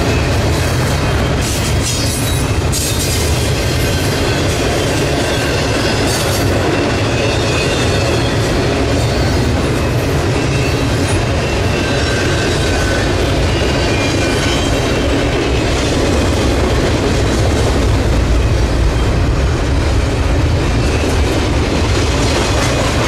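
CSX double-stack intermodal container train rolling past: a steady rumble and clatter of well-car wheels on the rail, with faint wheel squeals now and then.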